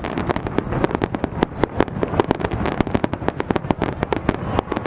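Fireworks going off: a dense, rapid run of sharp cracks and pops, many each second, with no gap.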